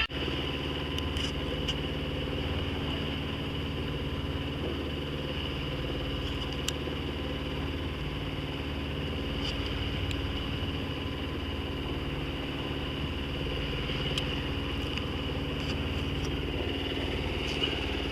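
Sailboat's engine running steadily while motoring in a calm, a constant even hum with no change in speed.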